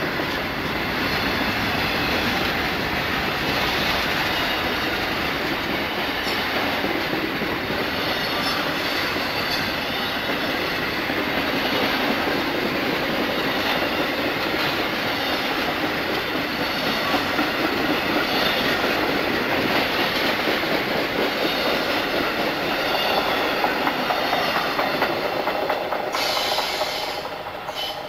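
Passenger train cars and a trailing boxcar rolling past on the track with a steady noise of wheels on rail, which falls away near the end as the last car clears.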